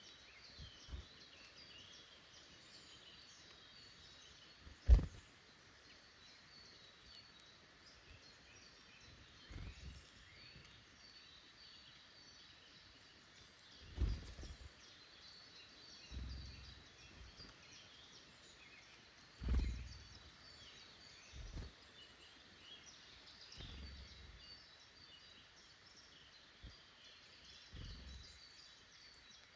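Woodland birds singing and chirping throughout, a busy chorus of small calls, with a handful of sudden low thumps close to the microphone, the loudest about five seconds in and two more near the middle.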